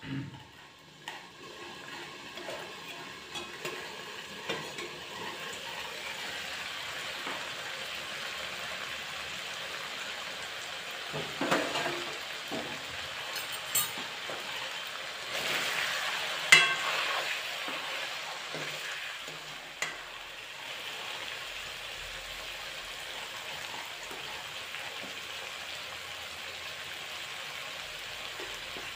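Chicken pieces frying in a steel wok on a gas stove with a steady sizzle, louder around the middle. A few sharp knocks of a utensil against the pan cut through it, the loudest about halfway through.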